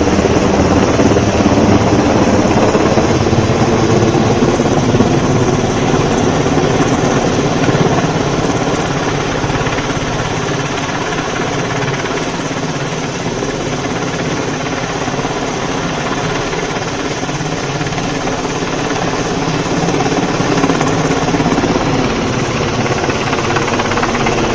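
Helicopter flying close by with a heavy pole on its sling line, a steady, loud rotor and turbine sound that eases slightly partway through and swells again near the end.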